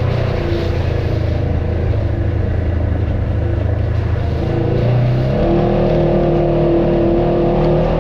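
Off-road vehicle's engine running steadily, its pitch stepping up about five seconds in as it revs higher.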